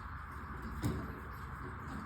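A single dull thump a little under a second in, over a steady background hiss and hum.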